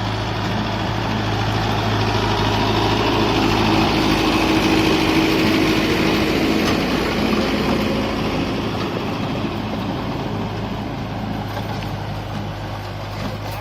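Mahindra Yuvo Tech 575 DI tractor's diesel engine running steadily. It grows louder over the first five seconds, then slowly quietens.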